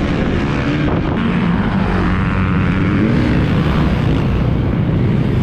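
Dirt bike engine running hard, its pitch rising and falling as the rider works the throttle through the gears.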